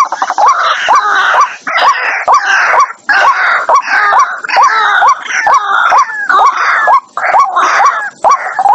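White-breasted waterhen calling: a fast, continuous string of short rising notes, about three a second, mixed with harsh croaking calls, broken by a few brief pauses.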